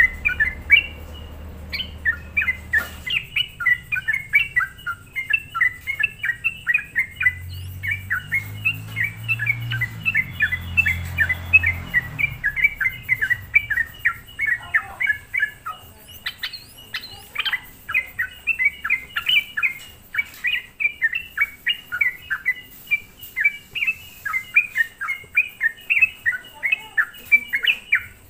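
Yellow-vented bulbul (trucuk) singing nonstop in its 'gacor' manner: a rapid, unbroken chatter of short bubbly chirps, about three a second.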